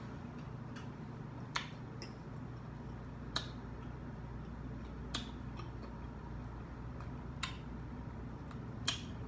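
Mouth sounds of someone chewing crunchy breaded fried shrimp: about five sharp, wet clicks and smacks, roughly two seconds apart, over a low steady hum.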